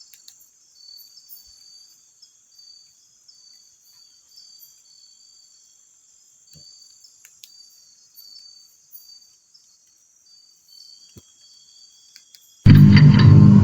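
Crickets chirping faintly in a steady, evenly repeated run of short high chirps. Loud music cuts in suddenly near the end.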